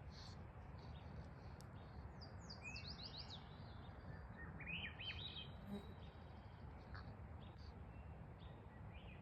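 Small songbirds chirping, with a quick run of falling notes about three seconds in and a short rising trill around five seconds, over a faint steady outdoor background noise.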